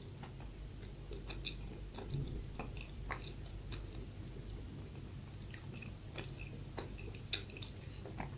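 Close-miked mouth sounds of someone chewing soft bread: small wet clicks and crackles, with a couple of sharper ticks in the second half.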